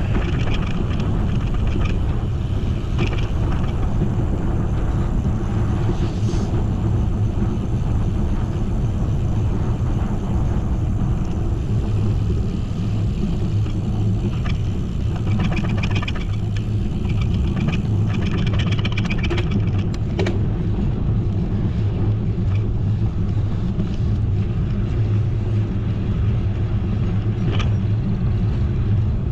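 Steady low wind rumble and road noise on the microphone of a bicycle rider moving along the road, with a few faint brief higher rattles in the middle.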